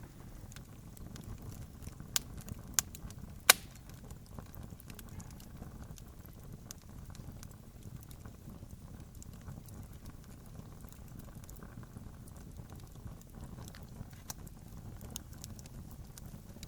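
Campfire crackling: irregular small snaps over a low, steady rumble. Three loud pops come between two and three and a half seconds in, and the last is the loudest.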